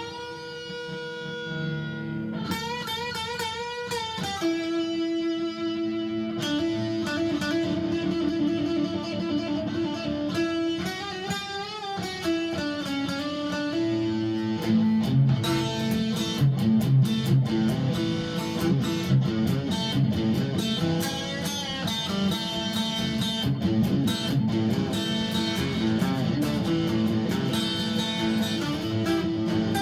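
Homemade three-string electric guitar with an aluminium composite top, played through an amp with a little overdrive. Long ringing notes with a wavering pitch come first, then busier picking from about halfway.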